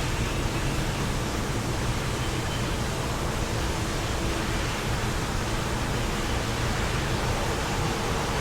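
Wind blowing steadily, an even rushing noise with a heavy low rumble and no breaks.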